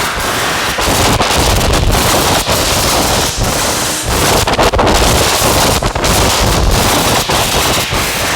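Loud, dense, distorted noise drone from a modular synthesizer (Make Noise Strega, Maths and Morphagene) run through Death By Audio fuzz and filter pedals, crackling, with frequent brief dropouts.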